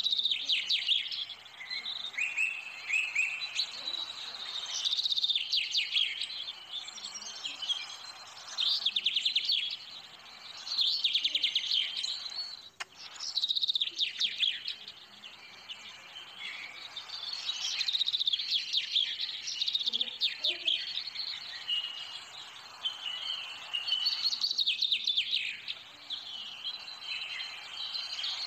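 Birds chirping and singing in rapid, high trills, in phrases that come back every few seconds.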